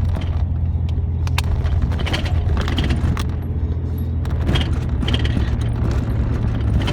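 Truck cab interior while driving: a steady low engine and road rumble, with scattered clicks and rattles from the cab.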